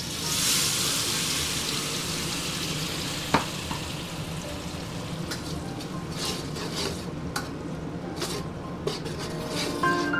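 Ground fried-rice spice paste frying in hot oil in a wok: a loud sizzle, fiercest in the first second, then steady, as a metal spatula stirs it. One sharp clack of the spatula on the wok a few seconds in, and a few short scrapes later.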